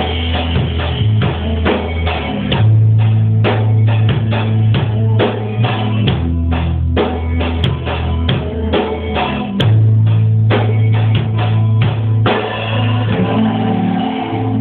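Instrumental intro of a band song: a drum kit playing busy kick and snare hits over bass guitar and guitar. About three quarters of the way through, the drumming drops back and held chords carry on.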